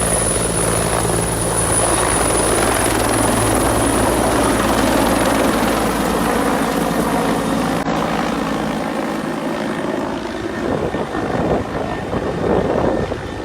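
UH-1 Huey helicopter's engine and rotor running loudly, a steady low drone with a broad rushing noise over it. The steady drone fades about two-thirds of the way through, leaving an uneven rumbling near the end.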